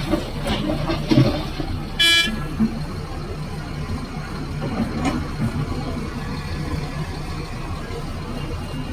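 A heavy vehicle engine runs steadily at a mine, and a vehicle horn gives one short toot about two seconds in.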